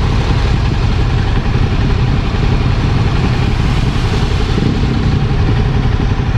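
Kawasaki Ninja motorcycle engine running steadily while riding, under a heavy rush of wind on the microphone.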